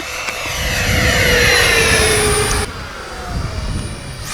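Electric ducted-fan RC jet flying past: a high fan whine that swells, then falls in pitch as it passes. The whine cuts off abruptly about two-thirds of the way in, and a quieter pass follows with its tone sliding down.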